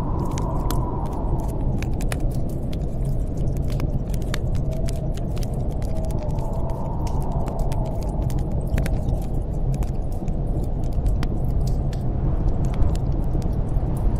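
A wood fire crackles in a fireplace with many sharp pops, over a steady roar of storm wind. A higher moan in the wind swells and fades in slow gusts every several seconds.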